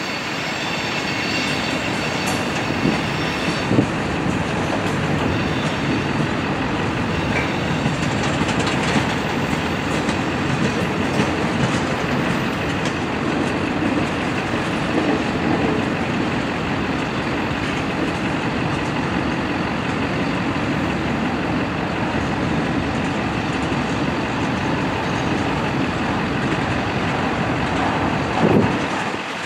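Freight train cars (tank cars, boxcars and covered hoppers) rolling steadily past, their wheels rumbling and clacking over the rails, with a faint high wheel squeal in the first few seconds and an occasional knock.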